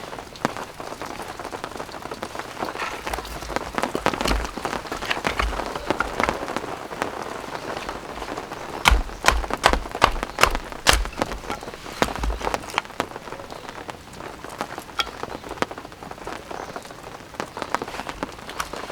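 Rain falling steadily, with many separate drops striking close by as irregular sharp taps, some with a dull thud.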